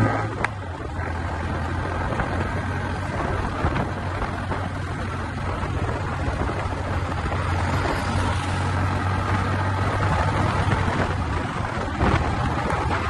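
Motorcycle engine running at a steady speed while riding, a constant low drone under heavy wind rush on the microphone.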